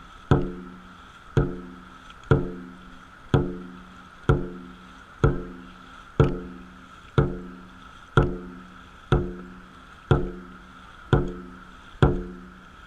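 Dragon boat drum struck at a steady pace, about one beat a second, each beat ringing briefly before the next. The drummer is beating the paddlers' stroke rate.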